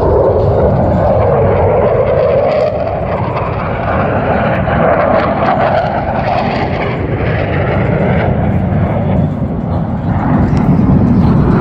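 Blue Angels F/A-18 Super Hornet jets flying past, a loud continuous engine rush whose pitch sags and then climbs slowly over several seconds before easing off near the end.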